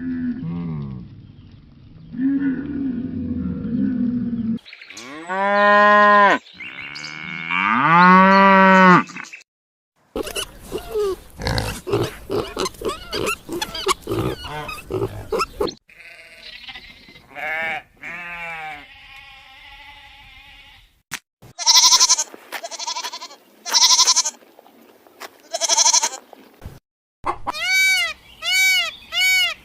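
A series of different farm-animal calls in separate clips, broken by short cuts. Loud pitched calls come about six and eight seconds in, a rapid clicking stretch follows, and a run of short high pitched calls fills the last third.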